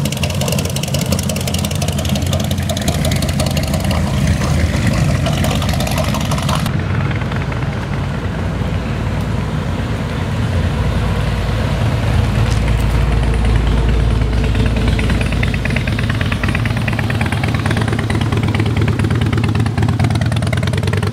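Classic American cars and an old pickup truck driving slowly past one after another, their engines running with a steady low drone. The sound changes abruptly about seven seconds in, losing its hiss.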